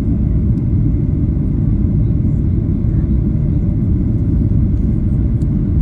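Steady low rumble of a Boeing 737's engines and airflow, heard inside the passenger cabin during the descent to land.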